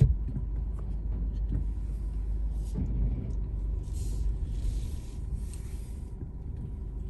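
Car driving, heard as a steady low rumble of engine and road noise, with soft hissing swells a few times in the middle.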